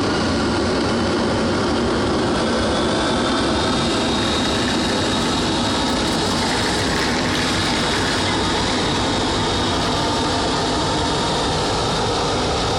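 Boeing 737-800's CFM56-7B turbofan engines running steadily: a thin, constant high whine over a loud, even rush.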